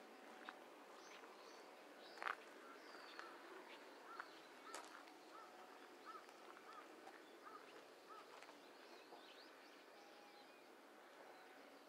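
Faint outdoor ambience in which a bird gives a run of short, evenly repeated calls, about two a second, with a couple of sharp clicks about two and five seconds in.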